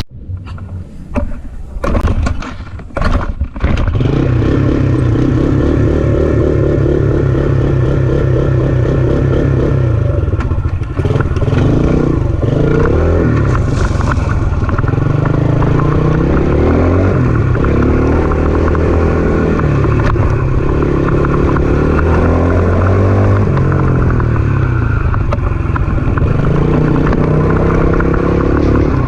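Case JX85 tractor's diesel engine running under way, loud and close, its pitch shifting a little as it drives. The first few seconds are choppy and uneven before the engine sound settles in steadily.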